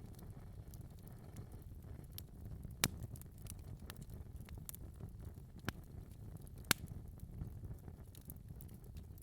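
Wood fire burning in a fireplace: a low steady rumble under scattered crackles, with two sharper pops, one a little before the middle and one about two-thirds of the way through.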